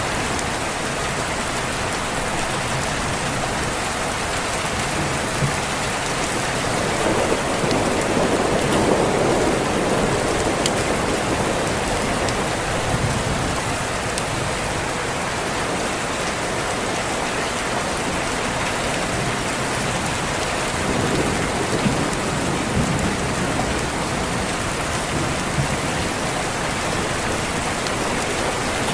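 Steady heavy rain with a rumble of thunder swelling up about a quarter of the way in and again about three quarters through.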